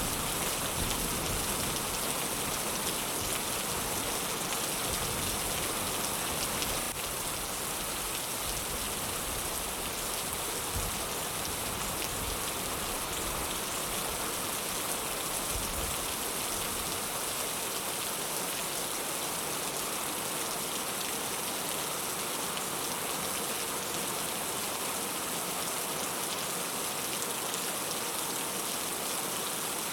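Heavy rain falling in a steady, dense hiss. A low rumble underneath dies away about halfway through.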